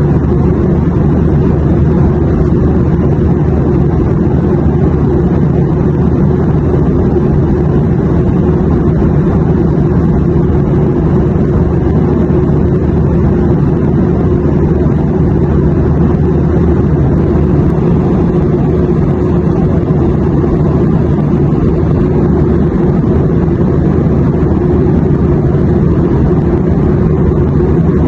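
Steady airliner cabin noise: a constant low rumble of engines and airflow with a faint low hum, unchanging throughout.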